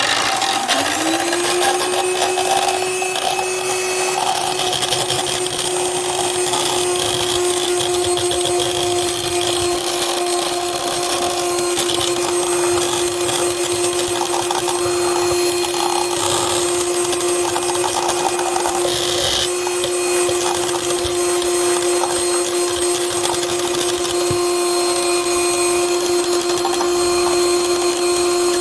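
Electric mixer whipping chilled fresh cream. Its motor starts up with a rising whine in the first second, then runs steadily at one pitch.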